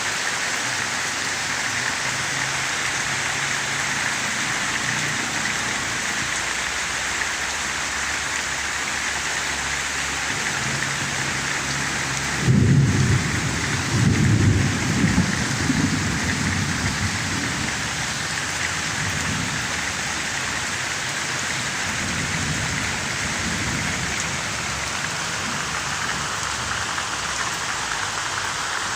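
Rain falling steadily, a constant even hiss. About halfway through, a low rumble of thunder starts suddenly, swells twice and trails off over a few seconds, with a fainter rumble later.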